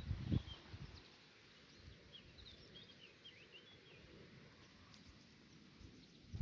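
Small birds chirping in a quick run of short, high notes around the middle, with a low rumble near the start.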